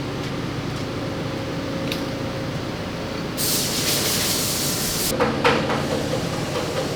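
Forklift engine running steadily at idle. About halfway through, a sharp hiss of escaping air lasts under two seconds, followed by a few metallic clicks and knocks near the end.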